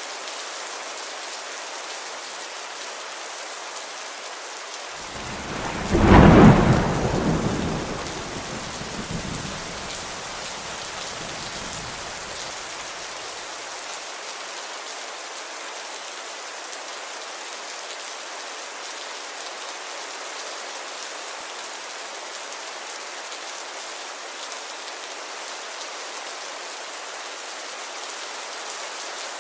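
Steady rain falling, with one clap of thunder about five seconds in whose rumble dies away over the next several seconds.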